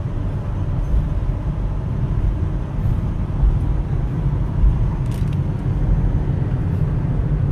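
Steady low rumble of engine and road noise inside a moving Mitsubishi Pajero's cabin, even and unchanging in level.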